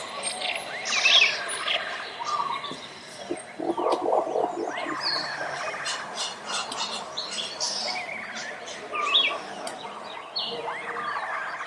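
Several songbirds calling and singing at once, a busy mix of short chirps and trills, with a lower, harsher call about four seconds in.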